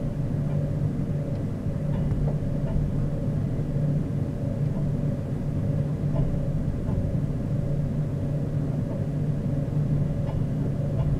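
Steady low rumble and hum heard inside a passenger train carriage as the train rolls slowly along, with a few faint clicks.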